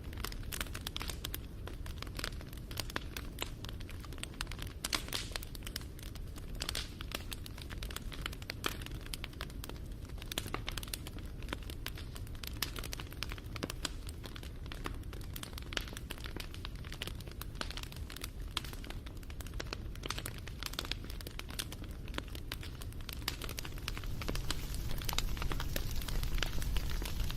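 Wood fire crackling, with dense irregular pops and snaps over a low rumble of flames; it grows a little louder near the end.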